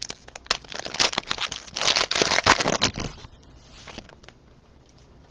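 A plastic trading-card pack wrapper crinkling and being torn open, with the cards being handled. The noise is thick and crackly for about three seconds, then dies away.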